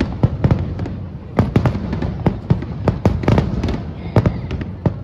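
Aerial fireworks bursting in rapid succession, many sharp bangs a second over a low rumble of echoing reports.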